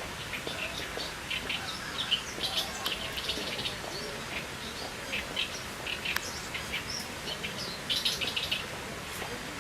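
Oriental reed warbler singing: several bursts of quick, short repeated notes, loudest near the start and again near the end.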